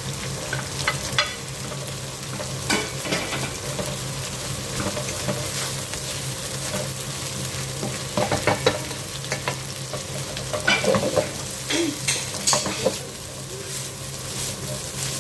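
Garlic and white onion sizzling in hot oil and butter in a pan while being stirred. Scattered clicks and scrapes of the utensil against the pan sound over a steady frying hiss.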